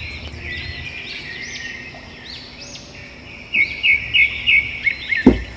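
Wild birds chirping and singing, with a quick run of sharp repeated chirps about three and a half seconds in. A brief dull thump near the end.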